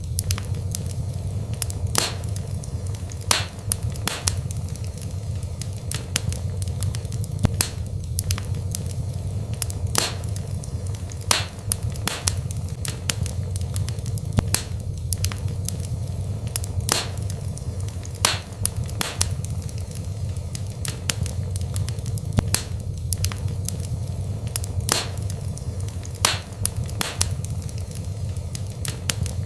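Wood fire burning in a fireplace: a steady low rumble with sharp, irregular crackles and pops, roughly one or two a second.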